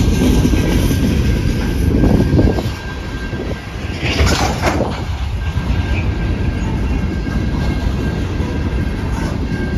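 Train passing on the track, its wheels rumbling steadily over the rails, with a brief sharper high-pitched burst about four seconds in.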